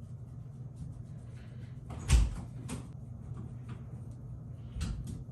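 A few knocks and bumps over a steady low hum: a sharp thump about two seconds in, a lighter one just after, and another near the end.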